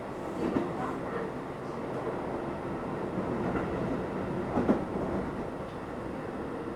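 Keio 7000 series electric train running, heard from inside the carriage: a steady rumble of wheels on rail, with two sharper knocks, one about half a second in and one about two-thirds of the way through.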